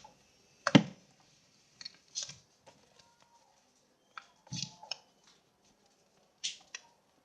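Paper being handled and pressed into shape: a few short crinkles and rustles, with a sharp tap just under a second in.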